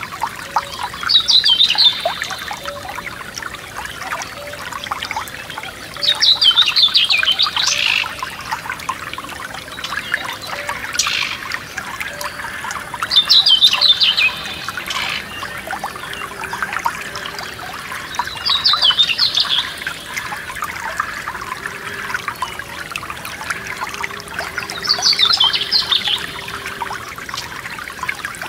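Forest stream trickling steadily over stones, with a songbird repeating a short trilled song phrase five times, about every six seconds.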